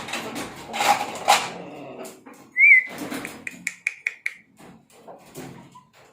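A high whistle: one short note that rises and falls, then a quick run of about six short notes at the same pitch. Before it there is a second or so of rough, noisy sound.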